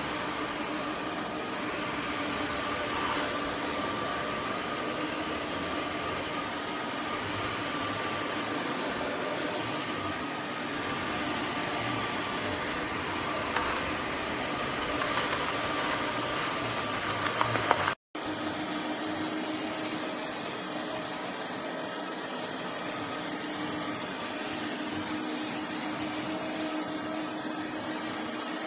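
Roborock F25 ACE cordless wet/dry vacuum running steadily, a whooshing noise with a faint steady whine. It cuts out abruptly about two-thirds through and then comes back.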